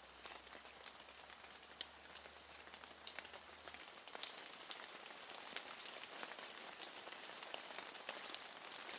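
Steady rain falling, a soft even patter with many small drop ticks scattered through it.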